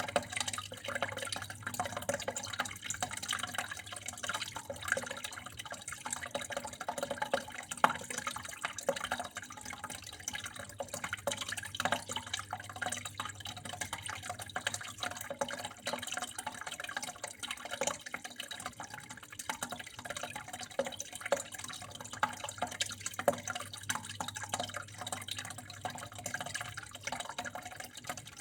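Water flowing and splashing steadily, full of small irregular drips and splashes, with a steady low hum underneath.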